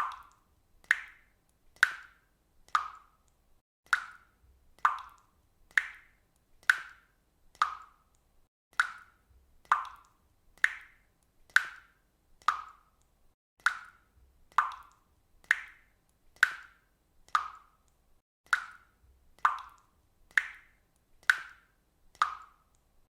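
Water dripping at a steady, even pace, about one drop a second, each drop a short, sharp sound.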